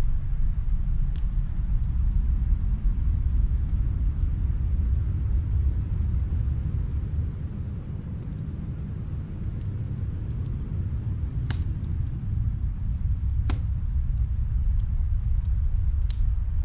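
Wood fire crackling: faint ticks throughout, with a few sharper pops, three of them in the last third, over a steady low rumble.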